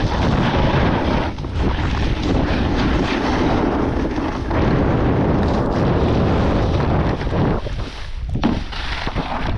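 Loud wind buffeting the microphone of a camera carried on a downhill snowboard run, mixed with the board's rush over the snow, easing briefly a few times.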